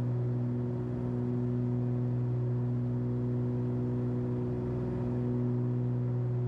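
Cessna 340's twin turbocharged Continental six-cylinder engines and propellers droning steadily at climb power, just after being throttled back from takeoff power. One even low hum with higher tones stacked above it, holding the same pitch and level throughout.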